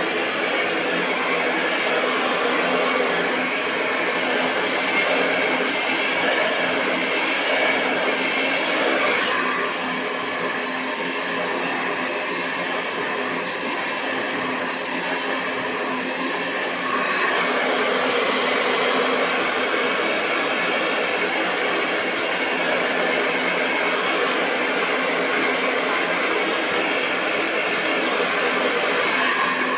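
Hair dryer running continuously: a steady rush of blown air over a low motor hum. It dips slightly in level about a third of the way in and comes back up a little past halfway.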